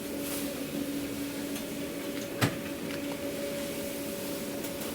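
Steady electrical hum of food-truck kitchen equipment, one low tone with another an octave above it, with a single sharp knock about halfway through.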